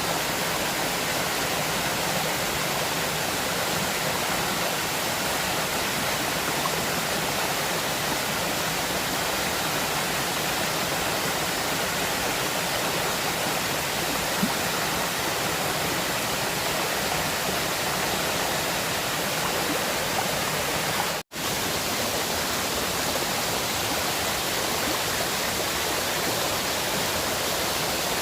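River water rushing steadily, with a brief cut to silence about two-thirds of the way through.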